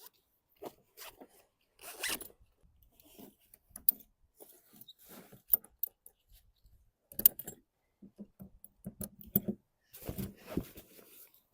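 Irregular rustling, rasping and clicking from a kayak seat's straps and clips being handled and fastened to an inflatable paddle board, with a few sharper clicks.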